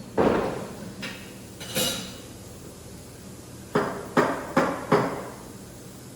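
A series of sharp knocks: one just after the start, another a moment later with a brighter, clinkier edge, then four more in quick succession about half a second apart.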